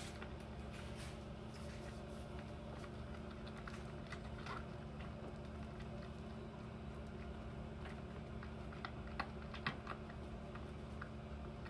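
Kitten suckling hard on a nursing bottle's nipple: faint, irregular wet smacking and clicking, with a few sharper clicks later on.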